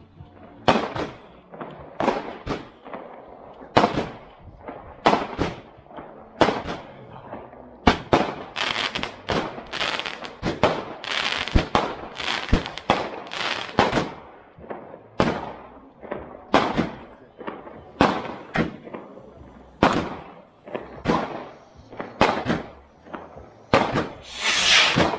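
Fireworks going off in a steady series of sharp bangs, roughly one a second, each with a short echoing tail. Near the end a ground fountain firework hisses loudly as it sprays sparks.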